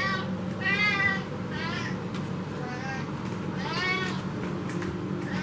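Siberian cat meowing insistently to demand food: three meows in the first two seconds and a longer one about four seconds in. A loud kitchen stove hums steadily underneath.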